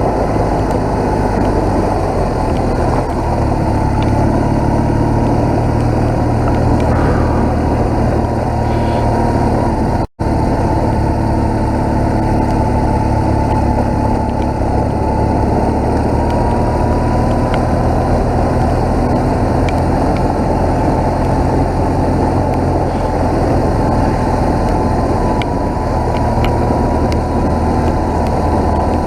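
BMW R1200GS motorcycle's boxer-twin engine running at an even, steady pace while riding, under road and wind noise. The sound cuts out for a split second about ten seconds in.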